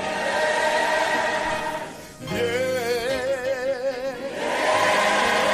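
Gospel choir music: voices holding long notes with vibrato over accompaniment, with a short break about two seconds in before the singing resumes.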